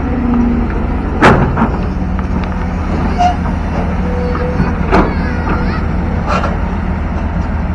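Long-arm excavator's diesel engine running steadily, with three sharp knocks from the machine at work.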